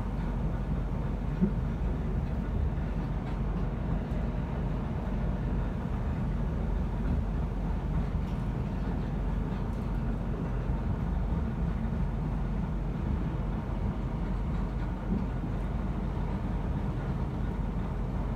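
Steady low rumble of a passenger train running at speed, heard from inside the carriage, with a single faint knock about a second and a half in.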